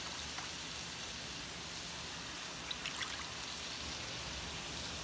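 Vegetables for pancit bihon frying in a metal wok, a steady sizzling hiss much like light rain, with a couple of faint clicks about three seconds in.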